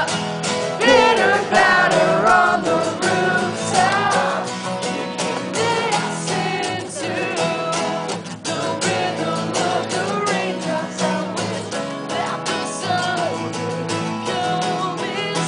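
Acoustic guitar strummed steadily while a male voice sings, the singing strongest in the first few seconds.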